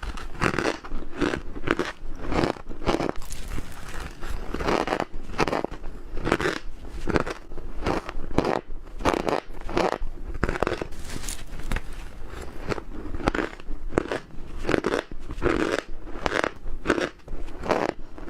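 Ice being bitten and chewed close to the microphone, a steady run of crunches about two a second.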